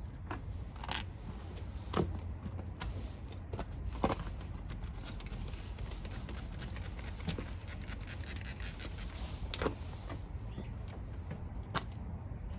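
Scattered sharp clicks and light knocks, about seven in all and irregularly spaced, from parts and tools being handled, over a steady low hum.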